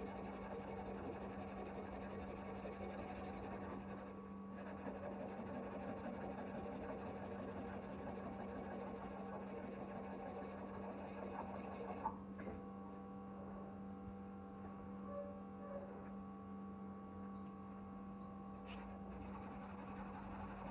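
Steady low hum over faint background noise, with a single light click about twelve seconds in.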